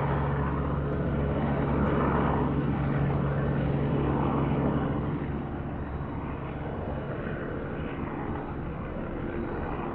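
A distant helicopter's engine and rotors giving a steady drone that grows weaker about halfway through.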